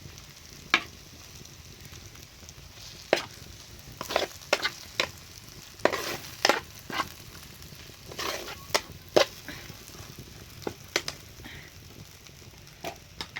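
A utensil stirring and scraping in a cooking pan: irregular sharp clinks and short scrapes, about twenty of them, over a faint steady hiss.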